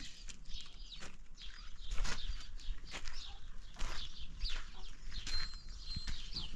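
Birds chirping: many short, high, falling calls repeating throughout, with a brief held whistle-like note near the end.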